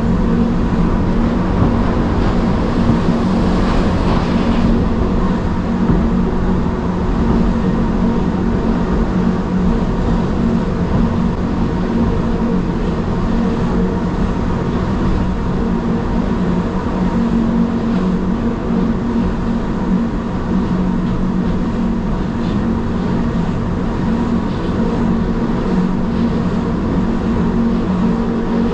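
Gornergrat Bahn rack-railway train running downhill, heard from on board: a steady electric hum over the rumble of the wheels and running gear. A brighter hiss drops away about four seconds in.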